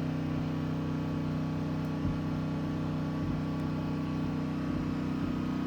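Steady low mechanical hum, like a motor or appliance running, unchanged throughout, with a few faint ticks.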